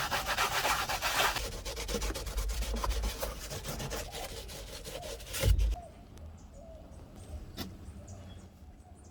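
A detailing brush scrubbing embedded dirt out of crevices in a car interior, a fast scratchy back-and-forth. The scrubbing is strongest for the first second or so. It ends with a thump about five and a half seconds in, after which only faint handling sounds remain.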